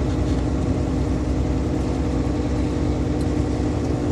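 Heavy truck's diesel engine droning steadily under load on an uphill climb, heard from inside the cab with a low rumble of road noise.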